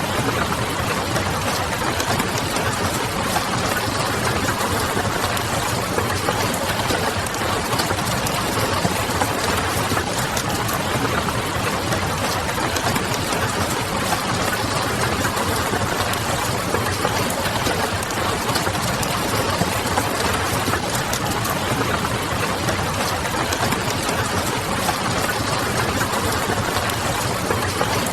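Steady rain pattering on a window, mixed with the small crackles of a wood fire and a low distant city hum, all even and unchanging.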